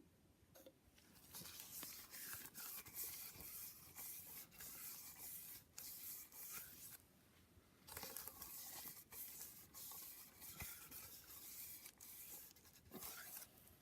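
Faint rubbing and scraping of a hand working fresh oil over the bare metal inside the engine, in two stretches with a short pause about seven seconds in.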